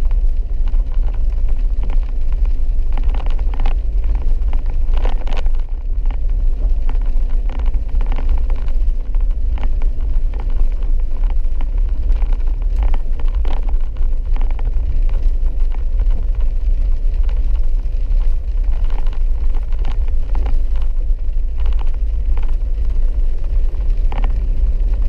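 Vehicle cabin noise while driving a rough dirt road: a steady low rumble of engine and tyres, with scattered knocks and taps as the vehicle jolts.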